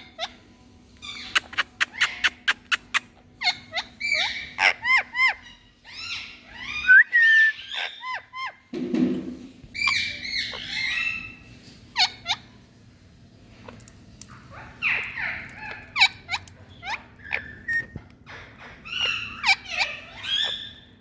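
Indian ringneck parakeet chattering: quick runs of clicks, chirps and squawks, with short rising and falling calls coming in bursts.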